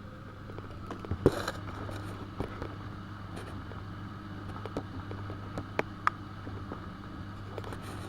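AEG Öko-Lavamat 72520 washing machine running a boil wash: a steady low hum with scattered clicks and knocks, the loudest about a second in.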